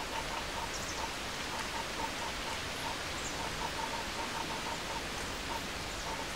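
Steady background hiss with faint, short pips at one pitch repeating irregularly, several a second.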